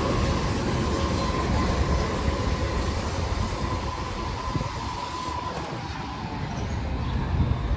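A heavy vehicle passing with a rumble and a steady high squeal that dies away about five seconds in, the rumble slowly fading after it.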